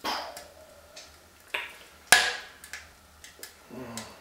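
Wood burning in a Supra F148 fireplace insert, crackling with a handful of scattered sharp cracks, the loudest a little past two seconds in.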